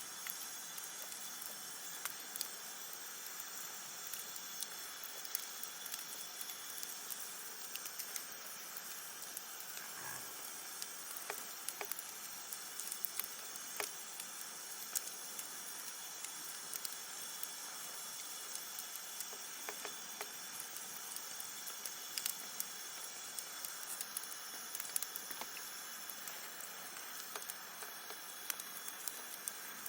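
Wood campfire burning: a steady hiss with frequent sharp crackles and small pops, and one duller knock about ten seconds in.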